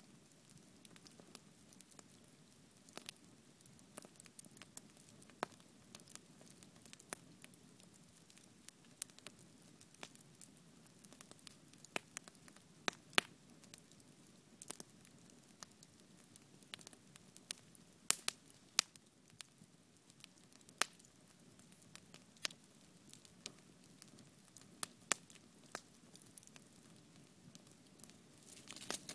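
Wood bonfire burning, with a low steady hiss and sharp, irregular crackles and pops of burning wood.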